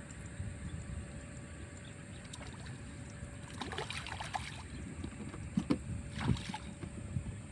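Water sloshing and splashing over a steady low rumble, the splashes coming in short irregular bursts from about halfway through.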